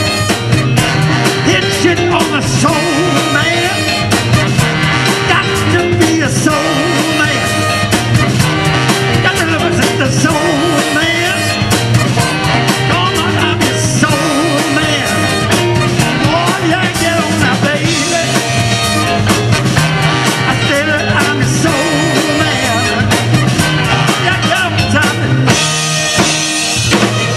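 Soul band playing live: a steady drum beat under a stepping bass line, guitar and voices, with a wash of cymbals near the end as the song closes.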